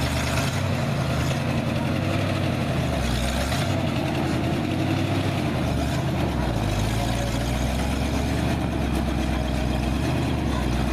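Vintage 1950s Chevrolet/GMC dump truck's engine running, its low pitch shifting up and down slightly as it moves along.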